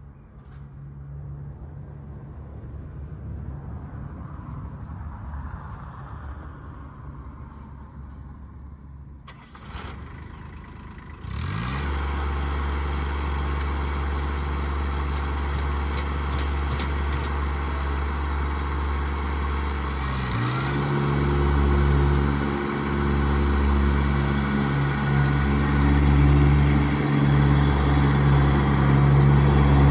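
Iseki tractor engine running steadily at low speed, then revved up to a higher, louder steady speed about a third of the way in, with another dip and rise to a heavier, louder running about two-thirds of the way in.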